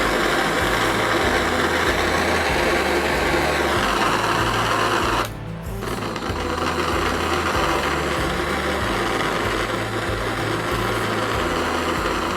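AS2OV portable gas stick burner's flame hissing steadily. It breaks off for about half a second some five seconds in, then resumes. Background music plays underneath.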